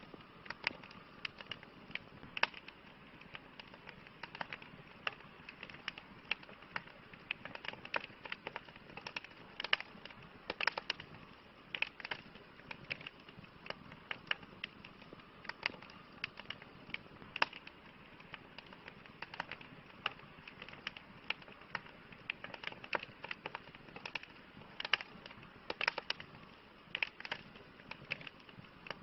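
Campfire crackling: irregular sharp pops and snaps of burning wood, several a second, over a soft steady hiss of the flames.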